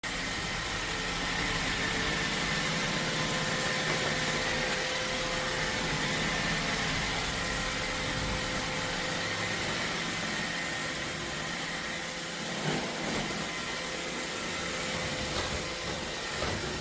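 iRobot Roomba Combo Y0140 robot vacuum running, a steady motor and suction whir with faint high whine tones, and a few light knocks near the end.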